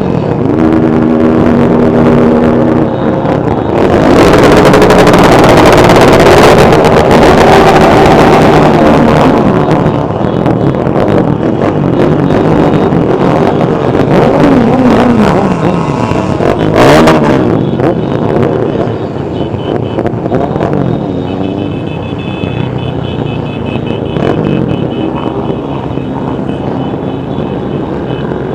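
Many motorcycle engines running together, their pitches rising and falling as riders rev, loudest for a few seconds near the start and easing off toward the end. About two-thirds of the way through there is a brief, sharp, loud burst.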